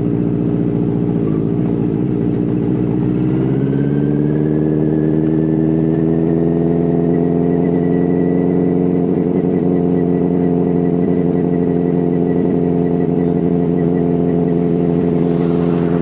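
Benelli TNT 600's four-cylinder engine running at low revs, then revving up about three to four seconds in and holding a steady, higher engine note while riding.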